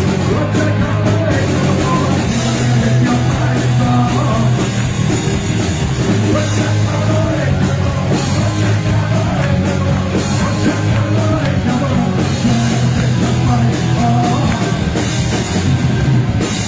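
Live thrash-punk band playing loud and fast: distorted electric guitars, bass and drum kit, with shouted vocals.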